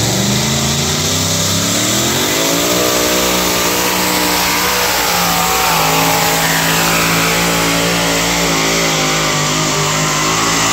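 Alcohol-fuelled two-wheel-drive pulling truck's engine at full throttle on a pull. It revs up over the first couple of seconds, then holds at high revs under load, the pitch wavering slightly.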